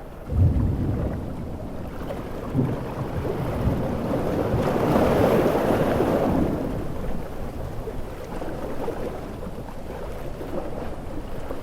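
Heavy ocean surf in a storm: a continuous rush of breaking waves, with a sudden low boom about half a second in and one wave surging loudest around five to six seconds in.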